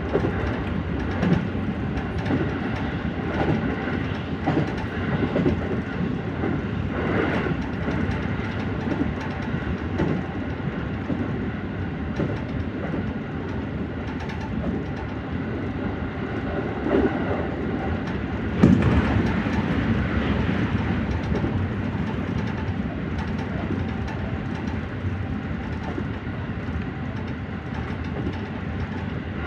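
JR Central 313 series electric train running at speed, its wheels clacking over rail joints in a steady run of knocks, with one louder knock about nineteen seconds in.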